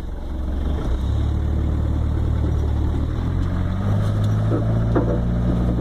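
Off-road vehicle's engine running with a low, steady hum that steps up in pitch about a second in and again around three and four seconds in as it pulls away to drive through a water puddle.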